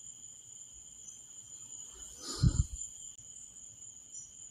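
Steady chirring of crickets or other night insects, a continuous high-pitched drone. About two and a half seconds in there is one short low sound.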